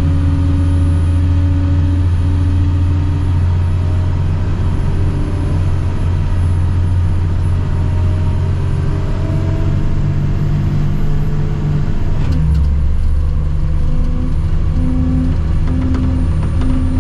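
Heavy diesel engine running steadily under load, its tone shifting noticeably about twelve seconds in.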